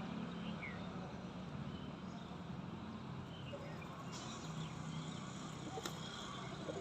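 A few short, high bird chirps over a low, steady rumble, with a single sharp click about six seconds in.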